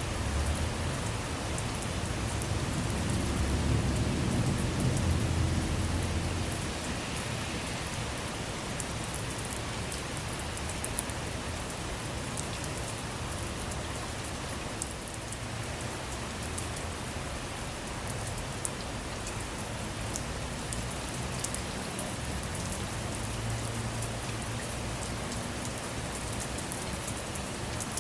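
Steady rain falling on a car, with scattered sharper drop hits. A low rumble of thunder swells a couple of seconds in and fades out by about six seconds.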